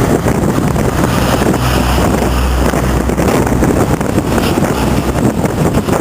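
A heavy vehicle's engine running with a low, steady hum, with wind buffeting the microphone.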